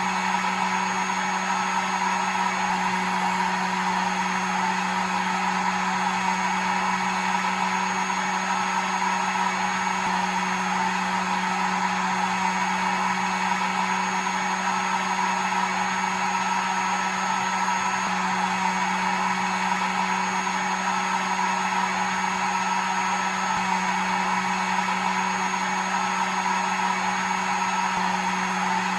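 Hair dryer running steadily: a constant motor hum under an even rush of blown air, with no change in speed.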